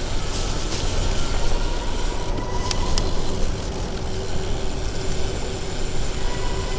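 Steady rumble of street traffic and wind noise heard from a bicycle on the move, with two faint clicks about three seconds in.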